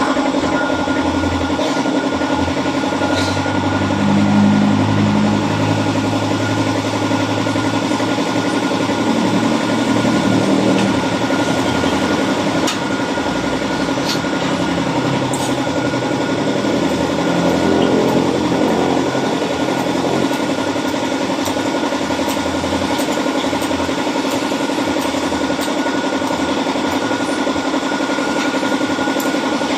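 Motorcycle engine running steadily at idle, with a few slight rises in engine speed about four, ten and eighteen seconds in.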